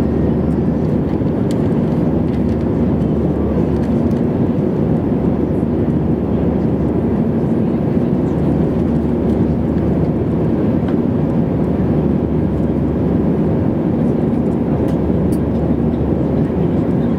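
Steady, even cabin noise of an airliner in flight: engine and airflow noise inside the passenger cabin, with a faint steady hum.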